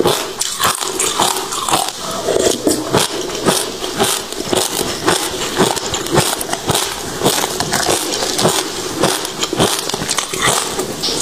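Passion fruit seeds being chewed and crunched in the mouth, close to a clip-on microphone: a dense run of sharp crackling crunches, several a second.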